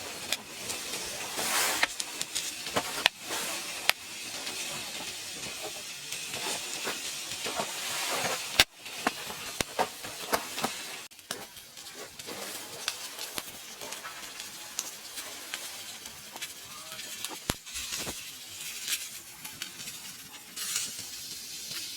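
Meat sizzling over a wood fire, a steady hiss with scattered crackles and pops and two sharp clicks.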